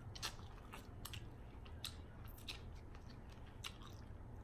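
Mouth sounds of someone eating seafood-boil food: chewing with about eight short, sharp wet clicks and smacks scattered through, over a faint steady low hum.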